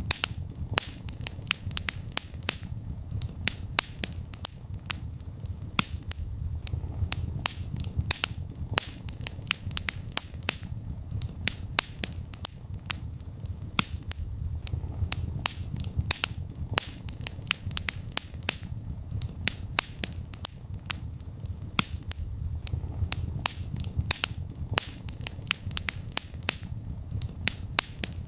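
Wood fire burning in a fireplace: a constant stream of sharp, irregular crackles and pops over a low, steady rumble of the flames.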